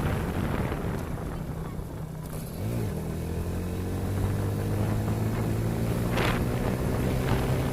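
Motorcycle engine running on the move, with wind on the microphone. About two and a half seconds in the engine eases off and its note dips, then it picks up again and holds a steady note.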